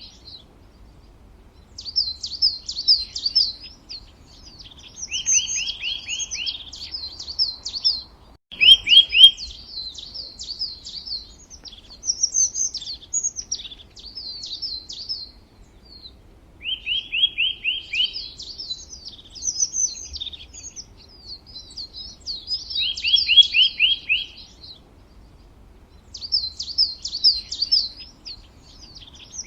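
A bird singing in repeated phrases of high, quick chirps, each phrase a couple of seconds long and often opening with a short run of rapid down-slurred notes, with brief pauses between phrases. There is a brief click about eight and a half seconds in.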